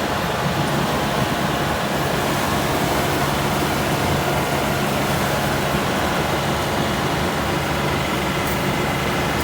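Rice combine harvester running steadily, its engine and machinery giving a constant, unchanging sound with several held tones.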